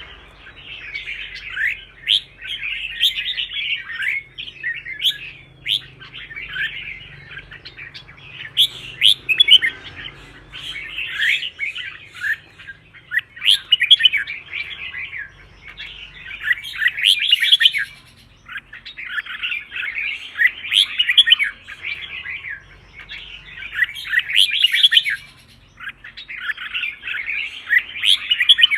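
Red-whiskered bulbul singing: quick, warbling whistled phrases of a second or two, one after another with short gaps between them.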